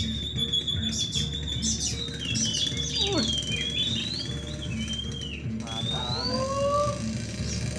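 Oriental magpie-robins (kacer) singing in a songbird contest: loud, varied whistled song that opens with a long held high note, then quick rising and falling phrases. A few lower whistled glides come near the end.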